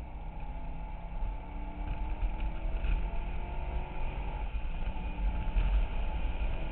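2008 Corvette Z06's 7.0-litre LS7 V8, heard from inside the cabin under hard acceleration. The engine note climbs steadily in pitch, then breaks at an upshift about four and a half seconds in. Under it runs a steady low rumble of wind and road noise.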